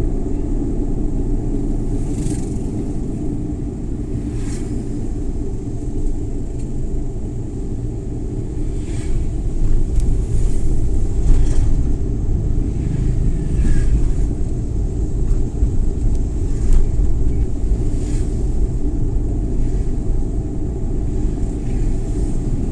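Suzuki Every Wagon (DA64W) on the move: a steady low rumble of its three-cylinder engine and tyres on the road, rising a little about halfway through, with a few faint light clicks now and then.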